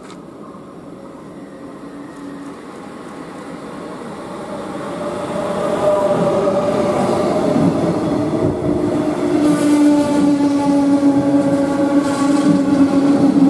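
Metronom electric double-deck regional train approaching and running past close by. It grows louder until the leading car reaches the platform about six seconds in, then holds a steady whine of several tones over the rumble of the wheels on the rails.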